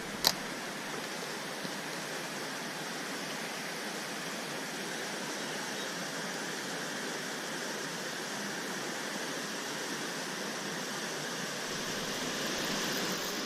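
Steady outdoor rushing noise, with one sharp click just after the start.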